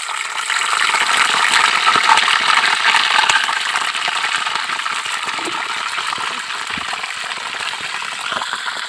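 Whole fish frying in hot oil in a small pot: a dense, steady sizzle and crackle of spattering oil, loudest in the first few seconds and easing slightly after.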